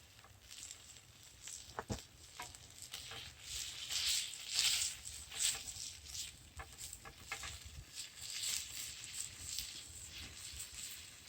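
Campfire crackling with irregular pops and snaps and bursts of hiss, louder in the middle, with a sharper knock about two seconds in.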